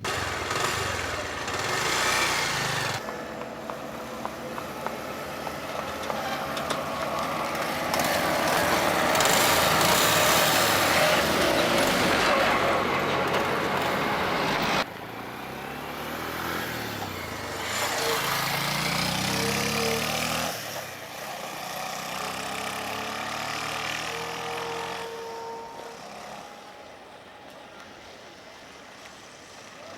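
Bajaj Pulsar 150 motorcycle's single-cylinder engine running on the move, mixed with wind and road noise. The engine pitch rises and falls in the middle of the stretch, the sound changes abruptly several times, and it is quieter near the end.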